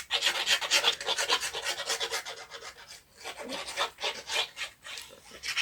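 A hand rubbing in quick, scratchy back-and-forth strokes, easing off briefly about three seconds in.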